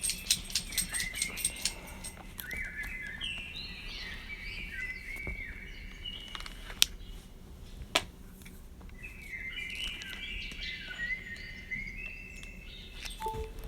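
Birds singing in two bouts of quick chirping notes that step up and down in pitch. A run of sharp ticks comes in the first two seconds, and two single loud clicks come midway.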